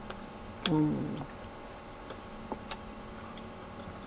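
Quiet eating sounds of a person chewing a mouthful of dumpling soup: a brief voiced murmur about a second in, then a few faint mouth or spoon clicks.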